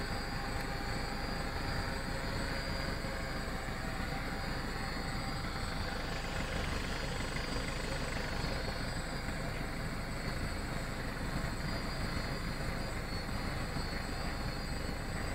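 Hexacopter's electric motors and propellers running steadily: an even rushing noise with several fixed high whining tones.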